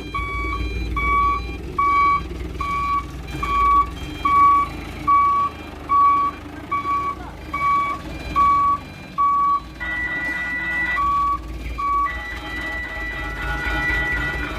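Mitsubishi Canter dump truck reversing: its back-up alarm beeps a little more than once a second over the diesel engine's low running. Twice near the end a longer, higher steady tone sounds in place of the beeps.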